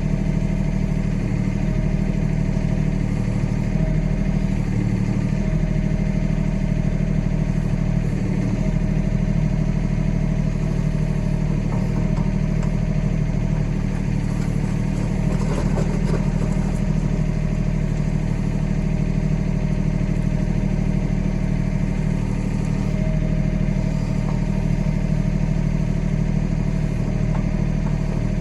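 Kioti tractor's diesel engine running steadily, with a brief clatter about halfway through.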